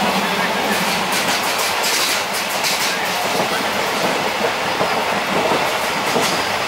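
Passenger train running along the line, heard from inside a carriage at an open window: a steady rush of wheel and rail noise with some clatter.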